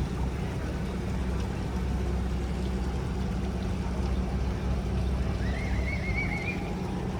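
Boat engine running at a steady drone, with the rush of water and wind around it. About five and a half seconds in, a short high warbling call rises briefly over it.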